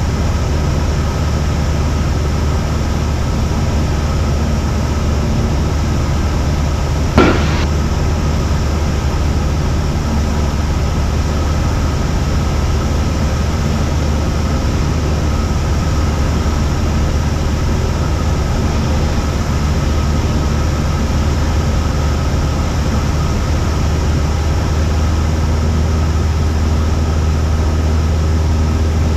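Cessna 172's engine and propeller droning steadily, heard inside the cockpit, with one short sharp click about seven seconds in.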